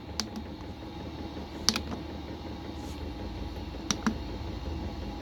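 Buttons on a diesel heater's control panel being pressed, three quick double clicks about two seconds apart, over the steady low hum of the running heater.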